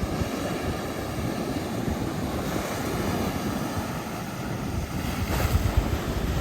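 Ocean surf washing and splashing against shoreline rocks, with wind buffeting the microphone.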